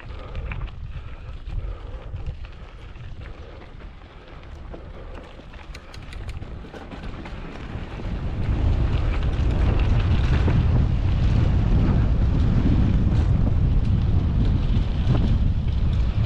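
Wind rushing over the camera microphone during a mountain bike ride, a low rumble with scattered small rattles, growing much louder about halfway through.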